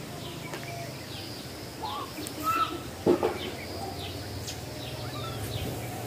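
Small birds chirping, many short quick chirps over a steady low hum, with a louder sudden sound about three seconds in.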